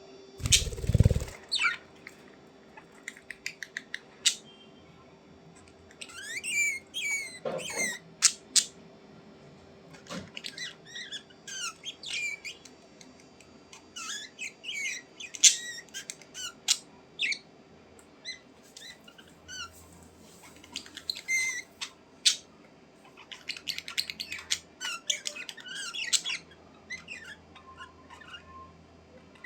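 Budgerigars chirping and warbling in short, scattered bursts of squeaky calls, with a loud thump about a second in.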